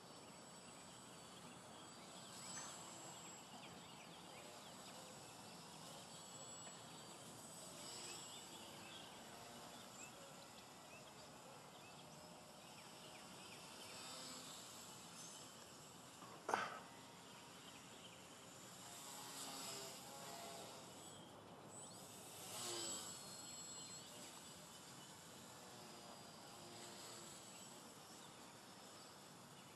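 Faint buzz of a micro electric RC biplane's motor and propeller, swelling and fading every few seconds as it flies and throttles, with one sharp click about halfway through.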